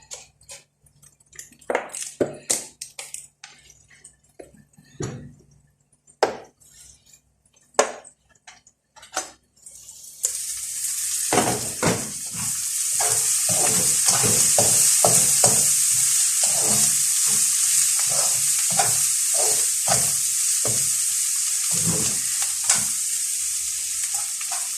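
Kitchen utensils clicking and knocking against pans and dishes, then about ten seconds in, food going into a hot oiled pan starts sizzling steadily, with a spatula scraping and tapping the pan as it is stirred.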